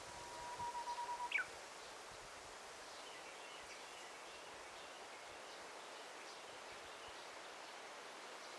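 A bird sings a held, pulsing whistle for about a second, ending in a sharp downward-sliding note. Fainter, more distant bird chirps follow over a steady outdoor hiss.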